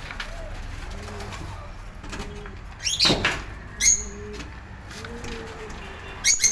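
Doves cooing over and over in low, rounded calls, with a few loud, sharp high-pitched bird calls cutting in about three and four seconds in and again near the end.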